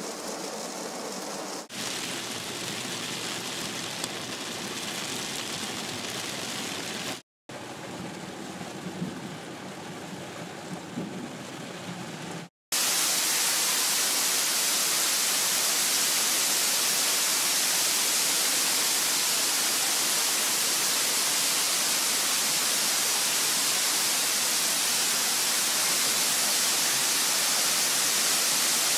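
Torrential rain. At first it patters on the car heard from inside the cabin, with two brief cuts. About 13 seconds in it becomes a much louder, even hiss of rain pouring down onto a paved parking lot.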